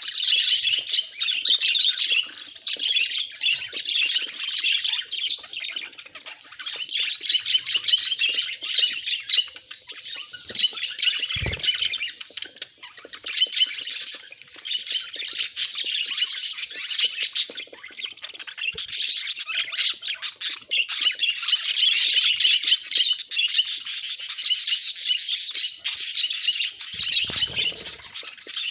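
Pet budgerigars chattering and warbling in a fast, continuous stream of chirps and squawks. A brief low thump comes about eleven seconds in.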